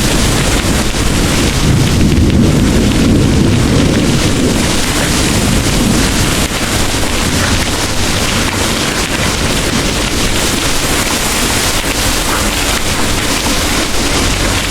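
Heavy rain pouring steadily, with a low rumble of distant thunder that fades away about halfway through.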